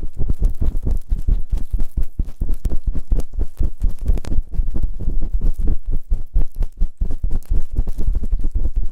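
Fast ASMR rubbing and scratching on both ears of a binaural microphone, many heavy strokes a second with a deep grinding rumble against the mic ears.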